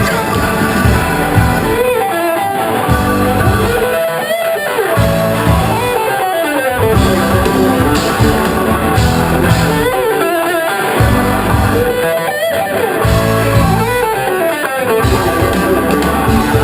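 Rock music led by electric guitar over bass, repeating a phrase about every two seconds, with no singing.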